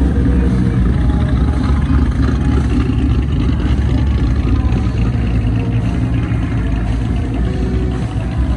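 A car engine running with a deep, steady rumble.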